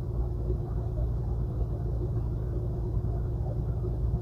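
Semi truck's diesel engine and road noise droning steadily inside the cab, a low rumble with a steady hum above it.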